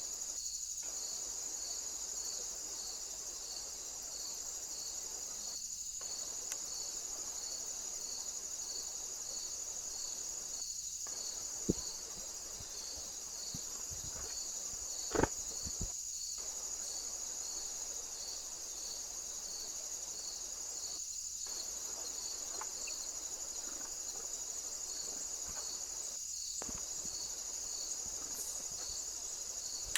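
Night insects stridulating: a steady, high continuous trill with a cricket chirping in an even rhythm about one and a half times a second. Two short knocks stand out, about twelve and fifteen seconds in.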